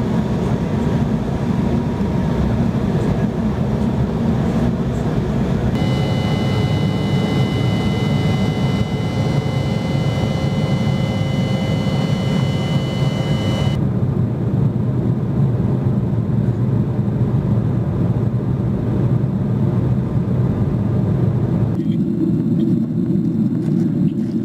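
Jet airliner cabin noise heard from a window seat over the wing: a steady loud rush of engines and airflow. It changes abruptly about every eight seconds as separate flights follow one another, and one stretch carries a steady high engine whine.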